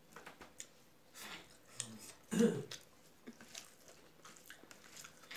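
Close-up chewing of soft rice and curry, with many short wet mouth clicks and smacks and one louder, brief mouth sound about halfway through.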